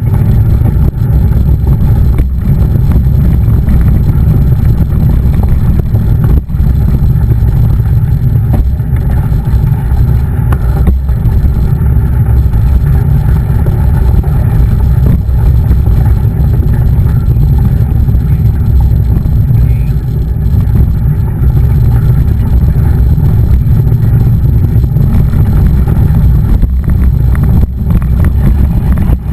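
Loud, steady low rumble of wind buffeting the camera microphone on a moving mountain bike, with a few brief knocks from bumps.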